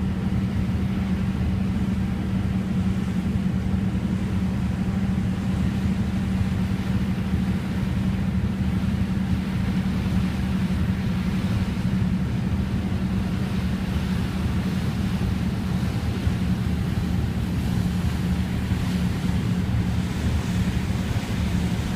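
Boat engine running at a steady pitch over a constant rushing noise.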